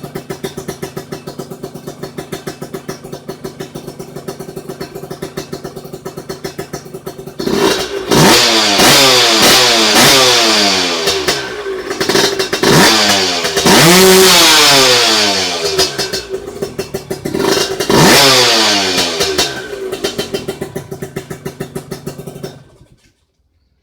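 An engine idling with an even putter, then revved hard several times in rising and falling blips, dropping back to idle and shutting off abruptly near the end.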